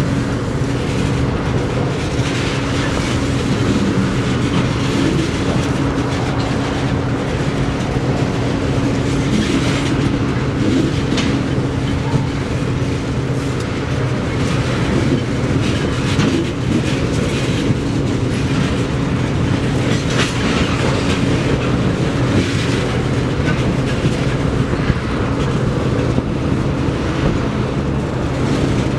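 Freight train of railroad tank cars rolling past, wheels clicking over the rail joints, over a steady low hum.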